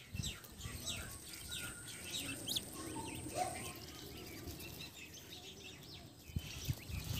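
Birds chirping: a quick run of short, high chirps that thins out after the first few seconds, over a faint steady high whine that stops about halfway. A few low thumps near the end.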